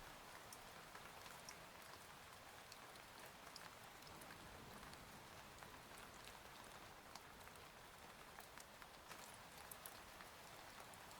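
Faint, steady rain ambience with scattered individual drops ticking.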